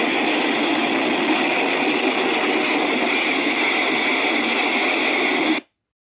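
Train running, a steady loud rushing noise that cuts off suddenly about five and a half seconds in.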